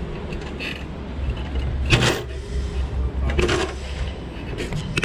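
A bicycle being ridden: rattles and creaks from the bike over a steady low rumble of wind on the microphone, with louder clatters about two seconds in and again around three and a half seconds.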